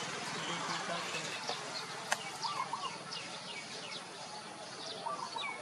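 Small birds chirping, a quick series of short falling chirps over a steady background hiss, with one sharp click about two seconds in.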